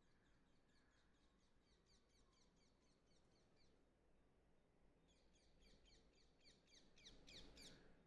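Faint bird calls: a fast run of short, high, down-slurred chirps, then a second run after a pause that grows louder near the end.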